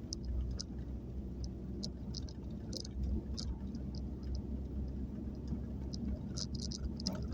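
Nissan Serena C23 van heard from the inside: a steady low rumble from the engine and running gear, with light, irregular ticks and rattles scattered over it.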